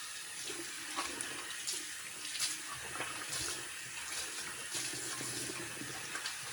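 Faucet running water into a sink with steady splashing, the water going down a drain just cleared with a snake, with a few small knocks.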